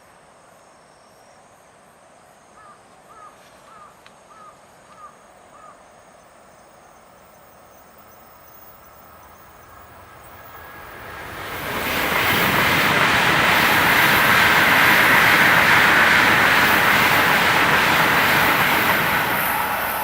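Tokaido Shinkansen high-speed train passing at speed. Its rushing noise builds from about ten seconds in, stays loud for several seconds, and starts to fade near the end.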